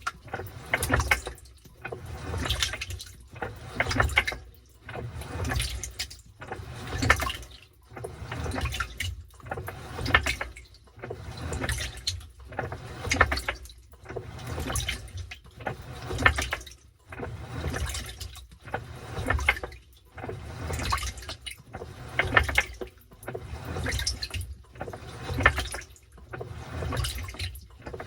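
Washing machine in its wash cycle, water sloshing in regular surges about every one and a half seconds as the drum's motion churns the load back and forth.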